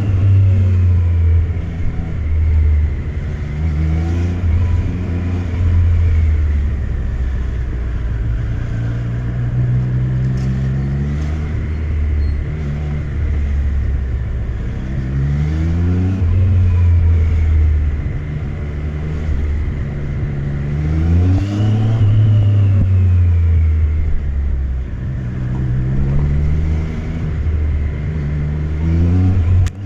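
Triumph Street Triple RS three-cylinder engine pulling the motorcycle along, its pitch climbing under acceleration and dropping back at gear changes several times over, with a steady rush of wind and road noise underneath.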